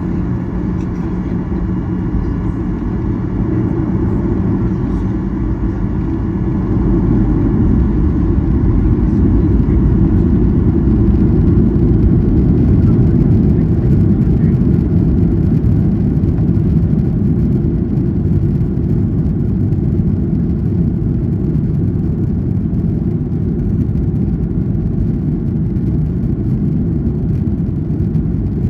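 Boeing 737-800's CFM56-7B engines running at takeoff thrust, heard from inside the cabin as a loud, steady noise with a deep rumble. It grows louder about seven seconds in.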